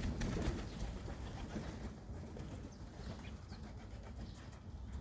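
Pigeons cooing, with faint short chirps of small birds over a low steady rumble; a louder rustle in the first second.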